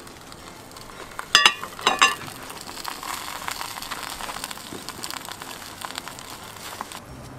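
Food sizzling and crackling as it fries in a pan. Two sharp, ringing metallic clinks come about a second and a half and two seconds in.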